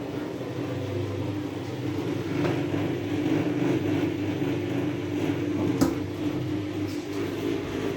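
DEXP washing machine running with a steady motor hum made of several held tones, with a sharp click about six seconds in.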